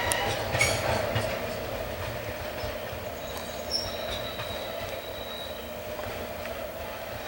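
Freight train of empty oil tank wagons rolling by on the rails, fading away. A few wheel clicks over rail joints come in the first second, and a thin, high wheel squeal follows midway.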